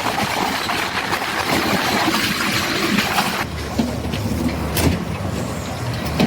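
Train running on the rails, a steady rushing noise. About three and a half seconds in, the noise thins to a quieter, steady low hum.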